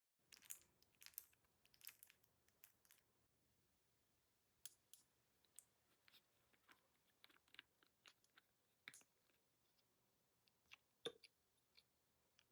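Faint, irregular small clicks and taps of nail tools against gel nails, with a slightly louder knock near the end.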